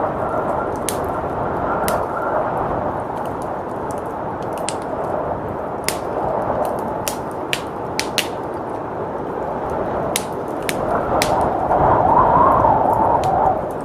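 Wood fire crackling and popping in a fireplace, with sharp irregular snaps, over steady blizzard wind that gusts louder near the end.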